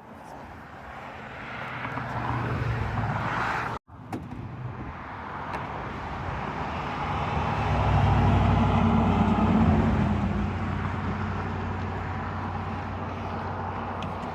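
A car or truck driving along a road, with a steady low engine hum and tyre and road noise that build up and then ease off. The sound breaks off abruptly about four seconds in, where the clip is cut, and the driving noise then resumes.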